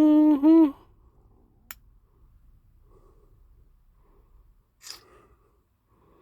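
A man's short hummed note at a steady pitch, broken into two parts, then a single sharp click and, near five seconds in, a brief noisy rustle; otherwise faint room sound.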